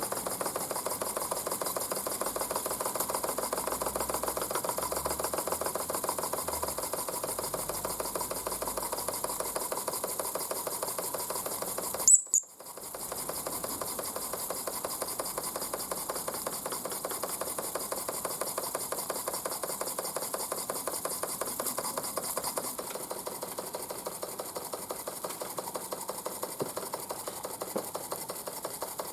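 Mamod SP8 James Watt live-steam model beam engine running with a fast, even ticking chuff, though not running well. A single sharp click about twelve seconds in.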